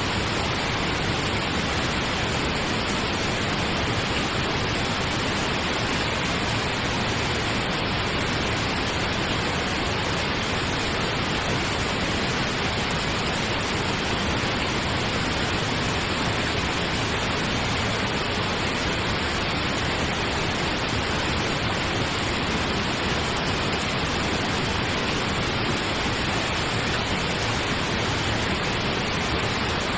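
Pink noise playing as a steady, unchanging hiss with no breaks or events.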